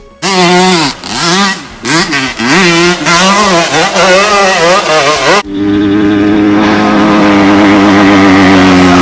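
Dirt bike engine revved hard over and over, its pitch climbing and dropping, for about five seconds. It then holds a steady high rev that sags slightly.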